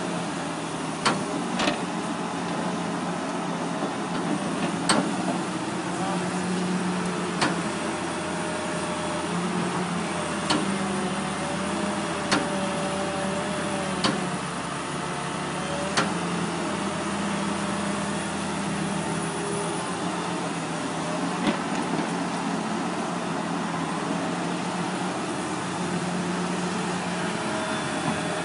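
Tractor engine running steadily, with sharp clicks every second or two.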